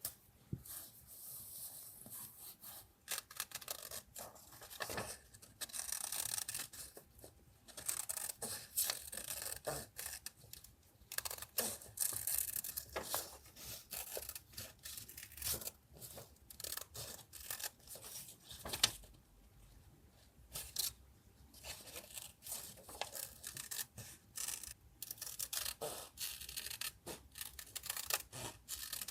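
Paper being handled for a journal collage: irregular rustling and scraping of paper sheets in uneven stretches, with many light clicks and taps between them.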